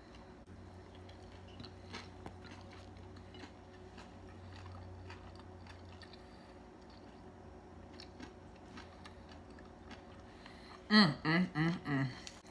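Faint chewing of a crispy fried chicken sandwich, with soft scattered crunches and mouth sounds.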